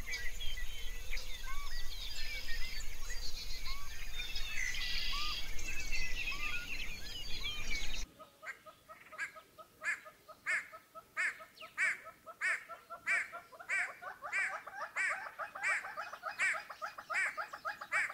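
A dense chorus of many small birds chirping over a low rumble, which stops abruptly about eight seconds in. Then a great hornbill calls over and over, about twice a second.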